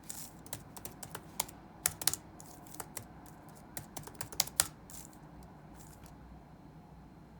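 Typing on a computer keyboard: irregular keystrokes in quick runs, thinning out to a few faint taps about two-thirds of the way through, over a steady low room hum.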